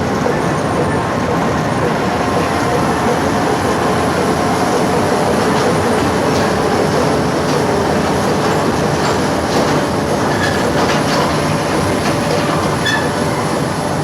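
Train running on rails: a steady loud rumble of wheels on track, with a faint wheel squeal and scattered clicks from the rails in the second half.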